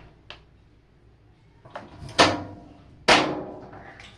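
Lid of a Whirlpool top-load washing machine being shut and knocked into place: a light click, then two sharp clunks with a short ringing tail about a second apart.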